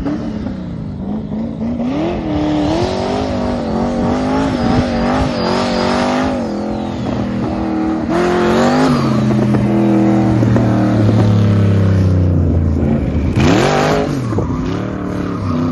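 LS V8 in a swapped BMW E36 revving up and down repeatedly under hard driving, with a longer spell at lower revs, then a dip and a sharp rise near the end.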